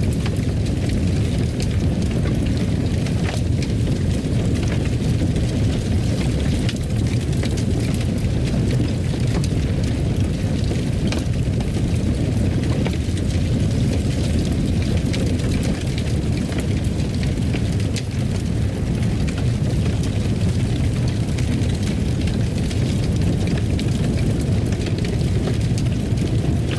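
Fire crackling in a fireplace: a steady low rumble with many small, scattered pops and snaps.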